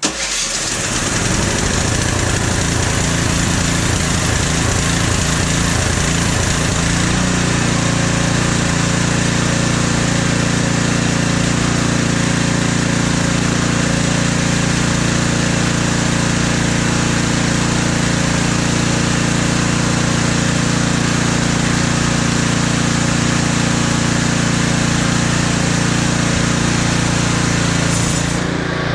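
Husqvarna ST330T snowblower's petrol engine running steadily at a constant speed, coming in suddenly and settling to an even note about seven seconds in.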